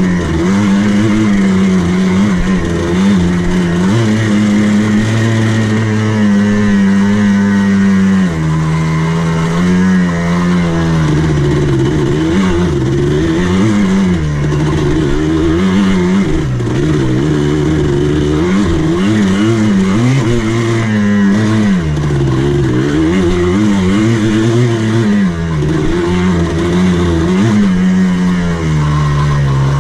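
Buggy (ATV) engine running as it drives a dirt course, its note rising and falling again and again with the throttle.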